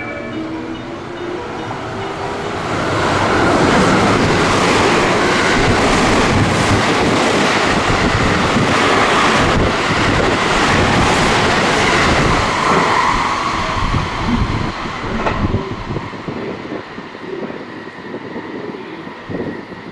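An electric train passing through a station at speed. The rushing noise of wheels and cars builds over the first few seconds, holds loud for about ten seconds, then fades with some clacking as the train goes away.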